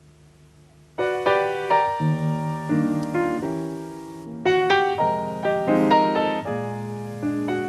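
Jazz piano introduction: rich chords struck in slow phrases, starting about a second in after a faint low hum.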